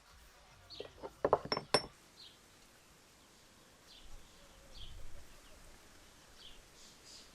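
A quick run of light clinks and knocks from hard kitchenware, two of them ringing briefly like glass. Short bird chirps repeat in the background.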